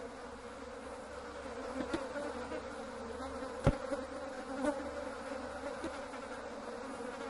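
Flies buzzing steadily, with a few short clicks over the buzz, the sharpest a little past halfway.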